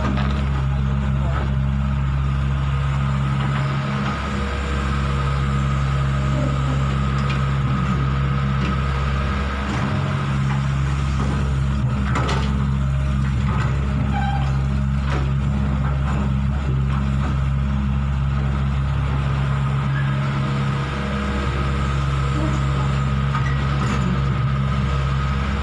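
Hitachi 120 excavator's diesel engine running steadily under work while a dump truck is loaded, with a few brief dips in engine note and a sharp click about twelve seconds in.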